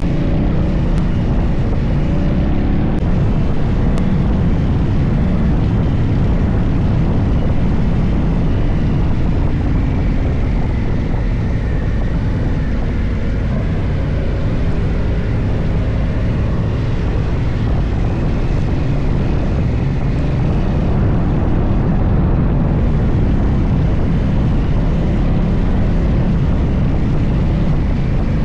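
Motorcycle engine running at a steady road speed, with wind and road noise.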